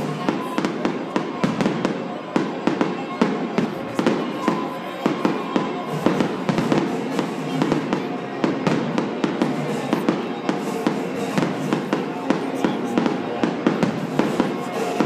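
Aerial fireworks going off in rapid succession, many sharp bangs and crackles several times a second, with music playing under them.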